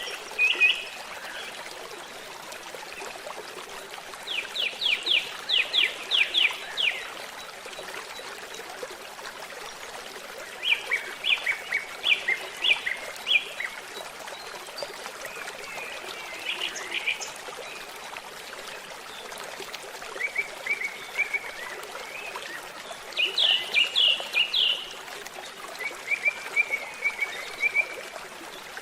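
Songbirds singing short phrases of quick repeated notes every few seconds over a steady babbling stream.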